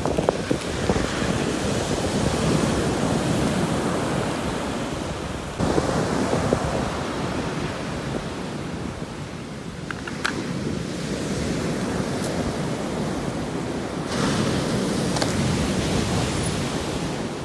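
Sea waves breaking on the shore, three times: at the start, about six seconds in and about fourteen seconds in, each surge of surf easing off into wash before the next.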